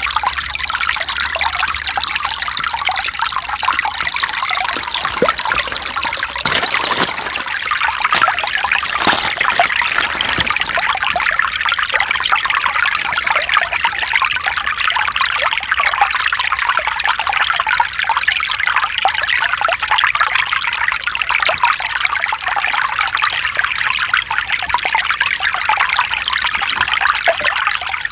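Mountain stream trickling and splashing over rocks, a steady rush of water.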